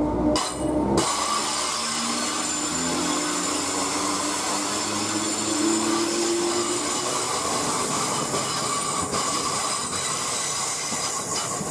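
Thameslink Class 319 electric multiple unit running past at speed, a steady rush of wheel and rail noise, with a low hum through the first half.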